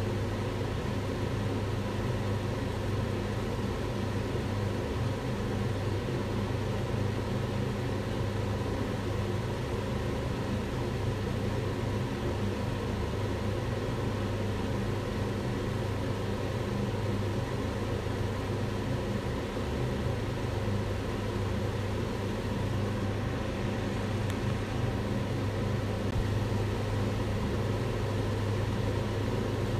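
Kitchen range hood fan running steadily: a constant rush of air over a low motor hum.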